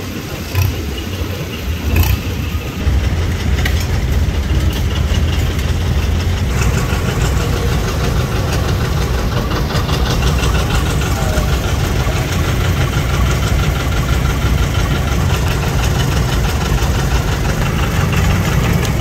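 Antique farm tractor engines running as the tractors pass in a parade. About six seconds in, a closer engine's rapid firing beat comes in over the others.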